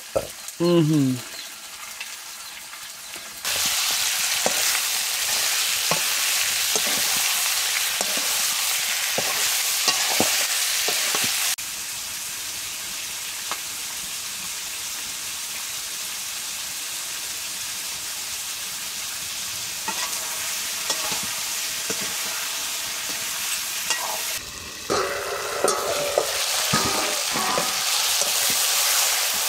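A curry frying in hot oil in a pan: a steady loud sizzle with scattered clicks of stirring. The sizzle starts suddenly a few seconds in, drops in level partway through and comes back up near the end. About a second in there is a short loud sound falling in pitch.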